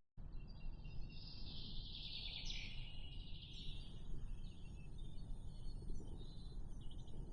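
Wild birds chattering and chirping, loudest in the first few seconds and then fainter, over a low steady rumble of outdoor ambience.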